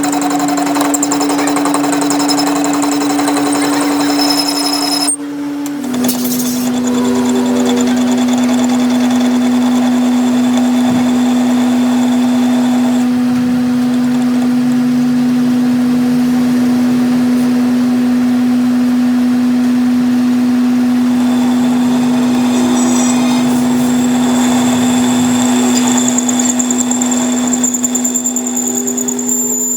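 Metal lathe running steadily while turning a shaft, with a strong even hum. The hum dips briefly about five seconds in and comes back slightly lower in pitch.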